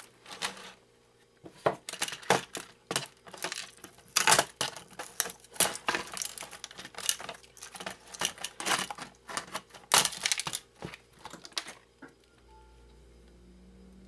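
Small plastic and metal parts of a video phone being handled and set down on a work surface during a teardown: a run of irregular clicks and clatters that stops about twelve seconds in, leaving a faint steady hum.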